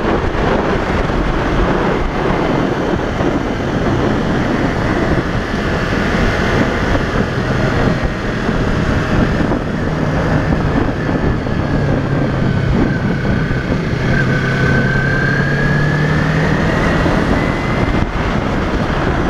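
Wind rushing over the microphone at riding speed, with the 2015 Yamaha YZF-R3's parallel-twin engine running underneath. Between about twelve and seventeen seconds in, the engine note climbs slowly.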